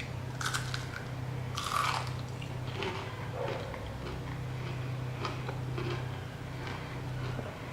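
A person biting into food and chewing it close to the microphone. Two short bites come in the first two seconds, then chewing with small clicking, wet mouth sounds.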